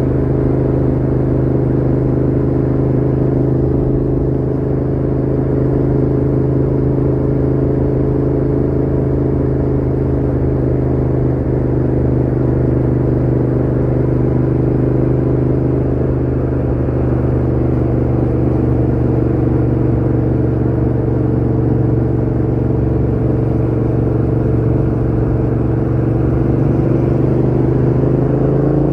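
Yamaha MT-07's 689 cc parallel-twin engine running through a Mivv GP Pro full exhaust with the dB killer fitted, holding steady revs, its pitch rising slightly near the end.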